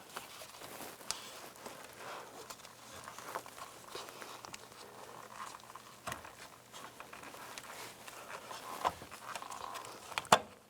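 Hands working a plastic wiring connector and wires: scattered light plastic clicks and rustling, with one sharper click near the end.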